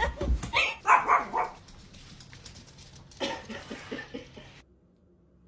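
Dog barking: a run of loud barks in the first second and a half, another run about three seconds in, then it cuts off suddenly.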